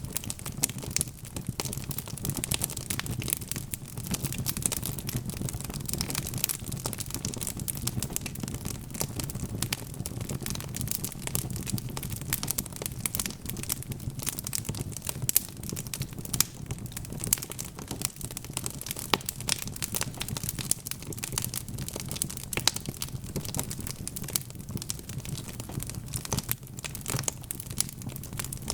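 Wood fire crackling steadily: a dense run of small sharp snaps and pops over a low, even rumble of the flames.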